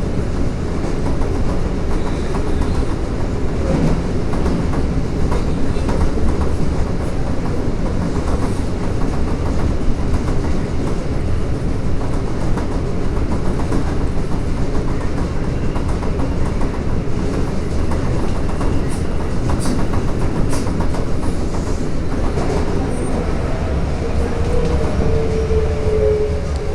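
Toei Asakusa Line 5300 series subway train running, with a steady rumble of wheels on rail and scattered clicks of rail joints. Near the end a whine slides downward in pitch.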